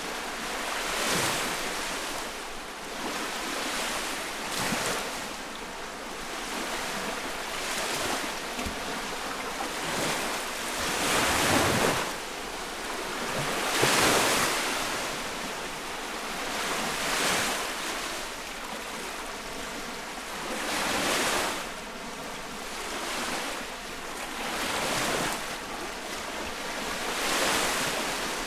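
Small lake waves breaking and washing on the shore close by, one swell of surf every few seconds, two louder ones around the middle.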